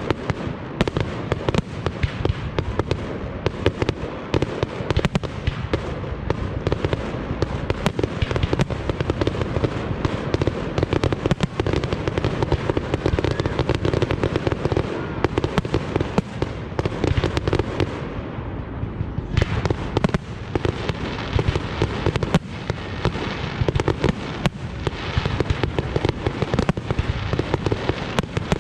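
Fireworks display: a dense, continuous barrage of bangs and crackling, easing briefly about two-thirds of the way through before building again.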